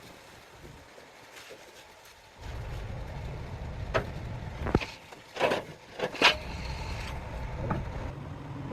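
A motor running with a steady low rumble that starts about two and a half seconds in, with a few sharp knocks over it.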